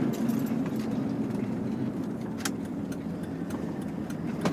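Dodge Durango driving, its engine and road noise heard from inside the cabin as a steady low rumble, with a few short clicks, the sharpest about two and a half seconds in.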